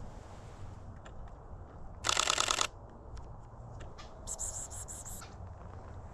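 DSLR camera shutter firing a rapid continuous burst for about half a second, a fast even rattle of clicks. A second, thinner and higher rattle of clicks follows about two seconds later.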